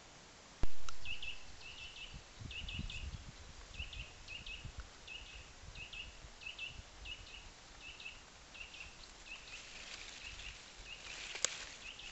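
A small songbird calling one short high note over and over, about two a second. A single sharp click comes about half a second in, and near the end there is rustling of leaves as a hand parts wild garlic.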